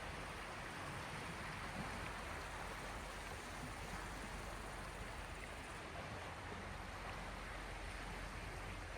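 Small sea waves washing on the shore: a steady, even hiss of water with no single breaker standing out.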